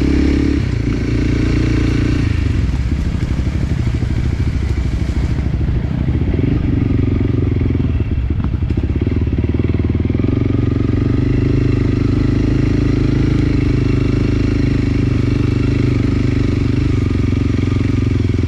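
Enduro dirt bike engine running close by, its pitch shifting several times with the throttle.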